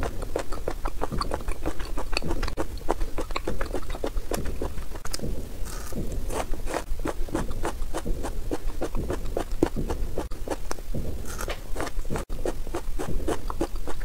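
Close-miked chewing and biting of spicy chicken feet and chicken offal: a steady run of many short, irregular wet clicks and crunches.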